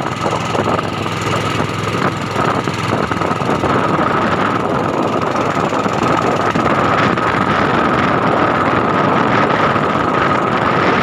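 Small fishing boat's engine running steadily, with a constant high whine over its noise.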